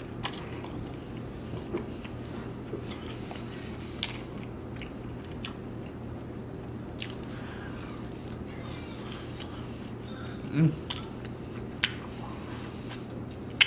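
Close-up chewing and biting of chicken wings, with scattered wet clicks and smacks of the mouth over a steady low background hum. About ten and a half seconds in there is a short hummed 'mm'.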